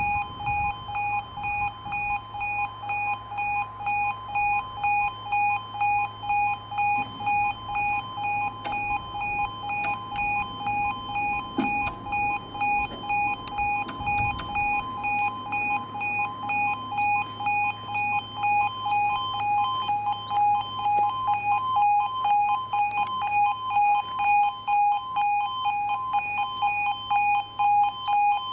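E2S Appello level-crossing alarms sounding their pulsing two-tone warning, a little under two pulses a second. This is the warning of an automatic half barrier crossing while a train is approaching.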